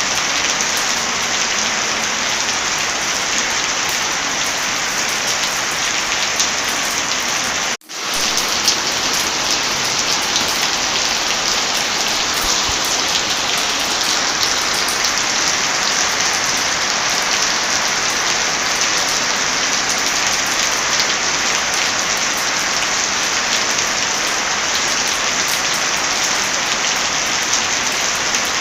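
Heavy, steady rain mixed with the small pops of a crackling fireplace. The sound cuts out for an instant about eight seconds in, then resumes.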